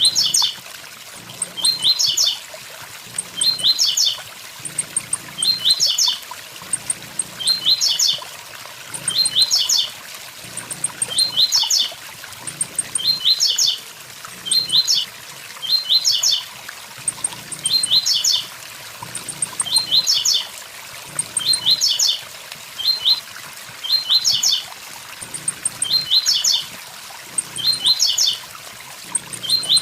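Blue-black grassquit (tiziu) singing its 'tui tui zel zel' song: a short phrase of quick, high, down-slurred notes repeated about every two seconds, over the steady rush of a waterfall.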